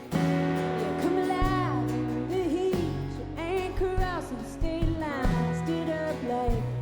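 Live band music through a festival PA: the full band, with bass notes, comes in suddenly at the start over guitar, and a sliding, bending melody line runs above it.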